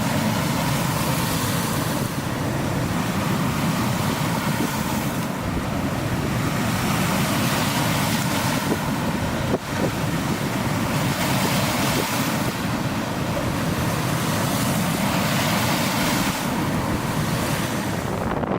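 Strong post-typhoon wind buffeting the microphone over rough lake waves breaking, a continuous loud rush that swells every few seconds.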